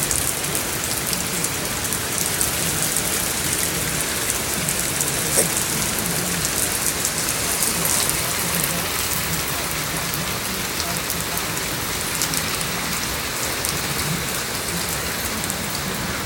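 Steady rain falling and pattering on surfaces, many small drop impacts in a continuous hiss.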